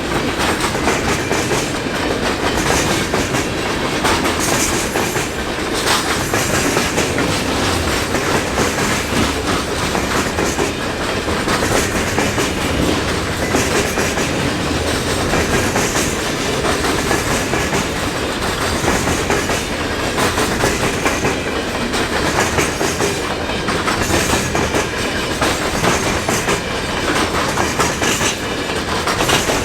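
Freight cars of a mixed freight train rolling steadily past close by, wheels clicking over the rail joints in a continuous clickety-clack.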